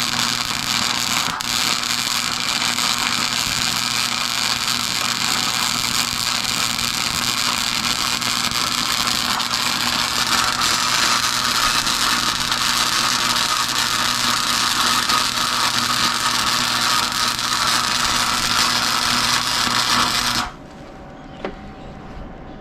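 Flux-core wire-feed welder running a continuous bead: the arc's steady, loud sizzling crackle over a low electrical hum, cutting off abruptly about twenty seconds in as the weld stops.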